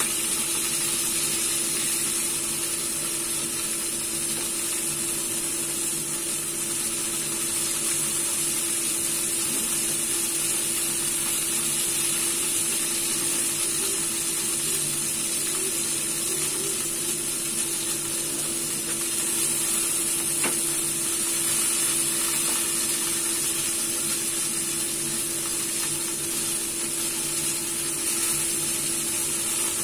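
Chicken wings frying in oil in a pan: a steady sizzle, over a steady low hum. A single sharp click about two-thirds of the way through.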